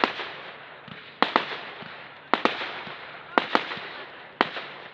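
Display fireworks bursting overhead: a sharp bang a little over once a second, several of them doubled, each followed by a fading crackle.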